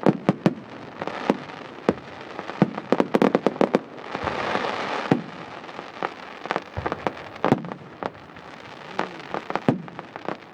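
Fireworks going off: many sharp bangs and crackling pops, with a quick string of pops about three seconds in. This is followed by a hissing rush lasting about a second.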